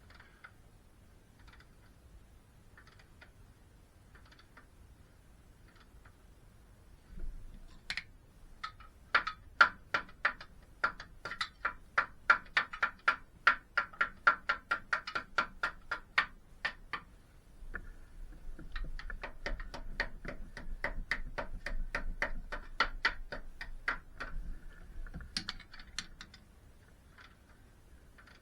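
A few scattered ticks, then two long runs of sharp, evenly spaced clicks at about three to four a second, with a short break between the runs.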